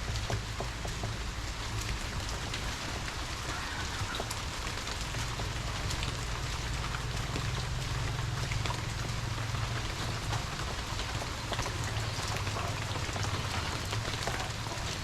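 Steady rain falling, with many small ticks of drops landing close to the microphone over an even hiss and a low rumble underneath.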